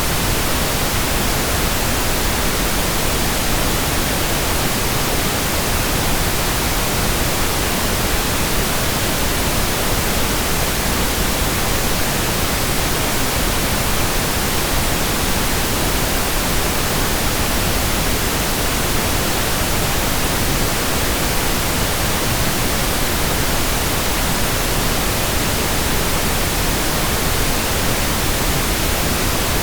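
Steady synthetic pink noise: an even, unchanging hiss spread across the whole range of pitch, with no events or variation.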